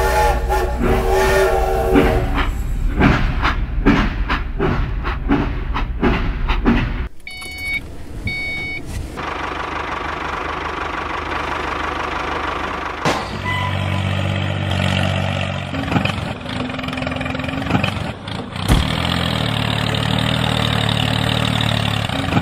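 Train sound effects: a whistle blast at the start, then several seconds of rhythmic clacking and a hissing stretch. From about halfway, a steady engine sound runs with a few knocks, going with the toy tractor.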